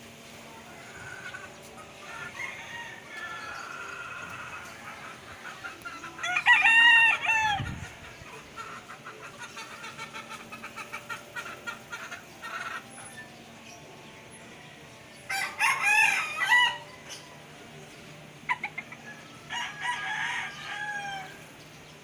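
Birds calling: three loud drawn-out calls, about six, fifteen and twenty seconds in, with quieter chirps and a quick run of short notes between them.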